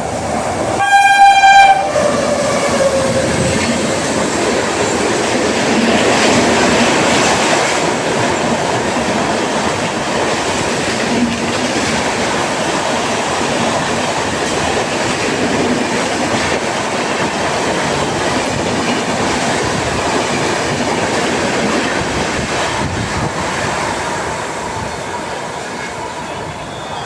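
An express train passes at speed. Its locomotive gives one short horn blast about a second in, and the horn's pitch drops just after as it goes by. The coaches then rumble past steadily for over twenty seconds, fading a little near the end.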